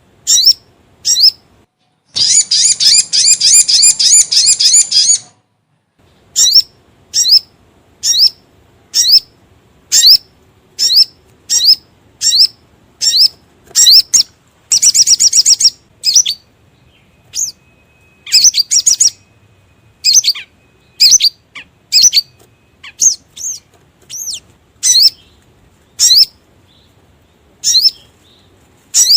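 Recorded calls of the sogon (sogok ontong) bird, a spiderhunter, played as a trapping lure: a long rapid trill, then a series of short sharp rising chirps about one a second, broken by another brief trill about halfway through.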